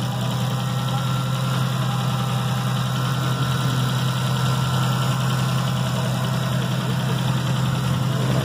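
Modified car's engine idling steadily, a constant low drone heard up close.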